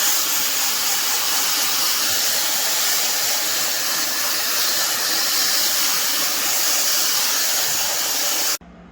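Fentgo high-speed brushless hair dryer running on its high setting: a steady rush of air that cuts off abruptly near the end.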